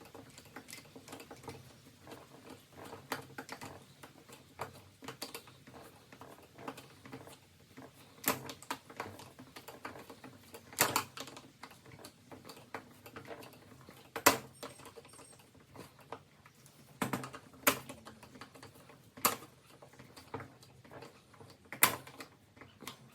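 Screwdriver working a hard-to-reach screw on a hedge trimmer's plastic housing a little at a time: irregular light clicks and scrapes of the tool, with a few sharper knocks scattered through.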